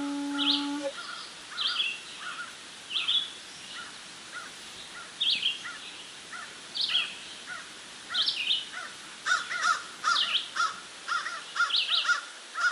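A bamboo flute's long held low note ends about a second in. Then a bird calls repeatedly in short chirps, about once a second, growing busier and overlapping near the end.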